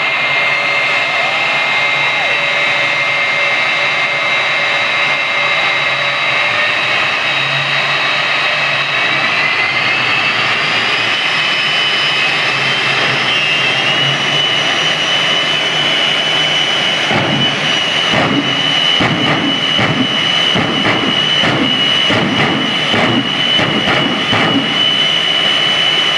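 Jet engine of a jet truck running with a steady high whine that climbs in pitch from about nine seconds in, then holds at the higher pitch; from about seventeen seconds an uneven, crackling rumble joins it.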